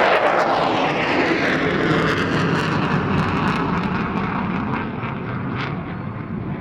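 F-16 fighter jet flying past in reheat (afterburner): a loud jet roar with crackle, its pitch falling as it passes about the start, then slowly fading away.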